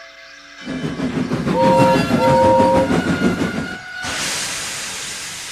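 Train running in with a loud rumble and clatter, sounding two short horn blasts about a second and a half in, then a higher held tone. From about four seconds a long hiss takes over and slowly fades.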